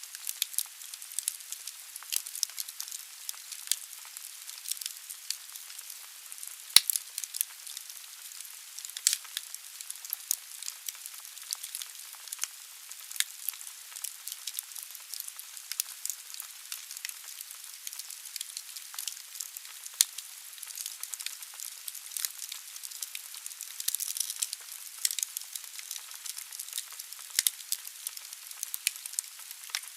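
Wood burning in a fireplace: a steady hiss with dense crackling and popping of the logs. There is a sharp, loud crack about seven seconds in, another near twenty seconds, and a short swell of hissing a little after that.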